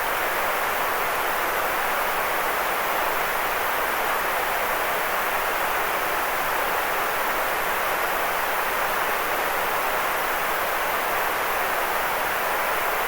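White noise for sleep: a steady, unchanging hiss, weak in the bass.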